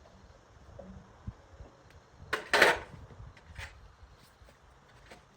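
Workshop handling noises: a few light clicks and knocks, and one loud, short scraping sound about halfway through.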